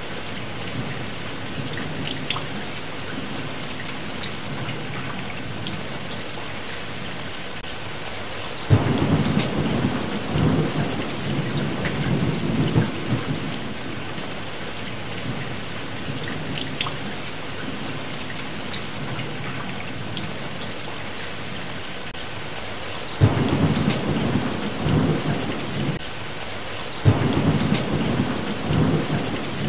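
Steady heavy rain, with low rolls of thunder that break in suddenly about nine seconds in, again a little after twenty-three seconds and once more near the end, each rumbling for a few seconds.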